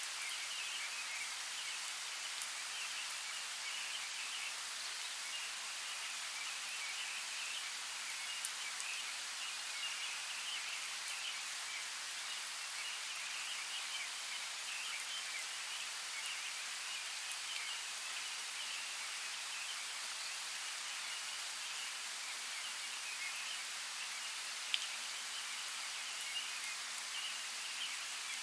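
Steady rain falling, an even hiss with a few sharp drop clicks now and then.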